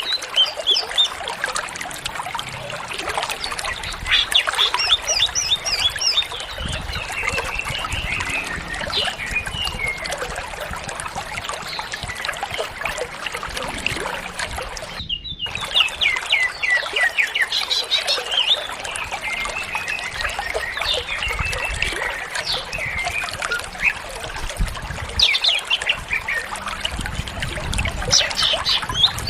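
Cucak ijo (green leafbird) singing without pause: a rapid, varied warble of chirps, whistles and short trills, packed with phrases copied from other birds. The sound cuts out for a moment about halfway through.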